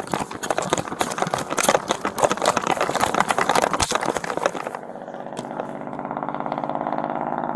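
Rapid clattering knocks and rustling, then from about five seconds in a vehicle engine running steadily with a fine regular pulse.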